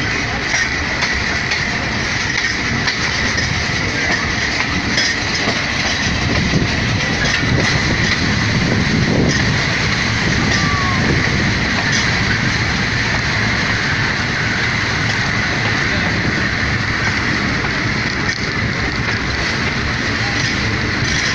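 Train running along the track, a steady rumble with scattered clicks of the wheels over the rails.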